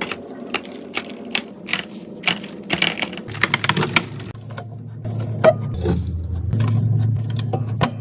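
Quick clicks and clacks of containers and food items being handled and set down while a fridge is restocked. A low steady hum comes in about three seconds in.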